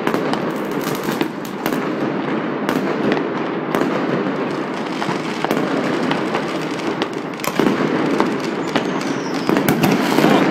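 Many fireworks and firecrackers going off at once across a city: a continuous crackle of overlapping bangs and pops, with louder bursts about seven and a half seconds in and near the end.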